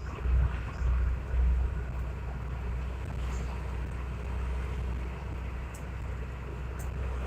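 Vehicle driving along a road: a steady low engine rumble with road noise, swelling a few times in the first couple of seconds.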